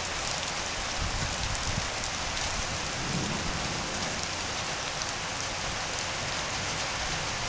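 Steady, heavy rainfall hissing, with low rumbles of thunder swelling about a second in and again around three seconds in.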